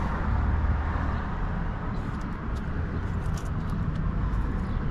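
Steady low outdoor background rumble, with a few faint clicks about two to three and a half seconds in.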